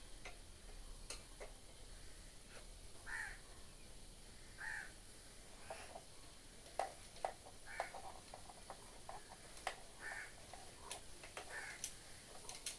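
A bird calling over and over, short calls every second or two, with scattered light clicks and knocks.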